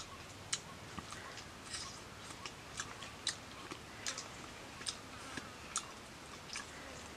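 A person chewing grilled fish with his mouth, with irregular wet smacks and sharp clicks, about two or three a second.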